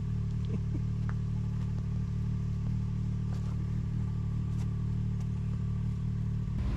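Off-road rock-crawler engine idling steadily, with a few faint clicks; the engine note begins to rise right at the end.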